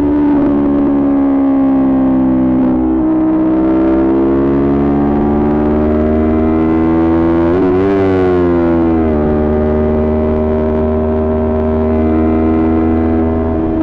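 Kawasaki Ninja 400 parallel-twin with an aftermarket Coffman exhaust, under way: the engine pitch drops at a gear change about three seconds in, climbs steadily as the bike accelerates, wavers briefly near the top, then falls with an upshift and holds steady.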